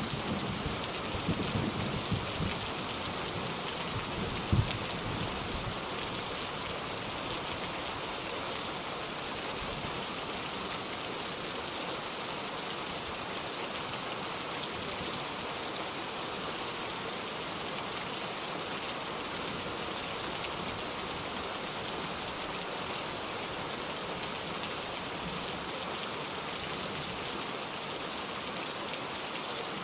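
Steady, dense rainfall hissing evenly. In the first few seconds a low rumble of thunder fades away.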